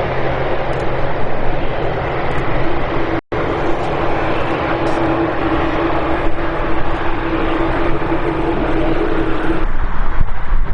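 Jet airliner engines running, a loud steady roar with a steady humming tone. The sound drops out for an instant about three seconds in, and it changes character near the end.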